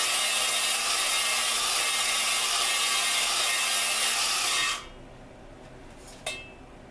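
An engine valve spun on its seat by a drill with lapping compound between them: a steady, gritty grinding rasp that cuts off suddenly about five seconds in. A short click follows about a second and a half later.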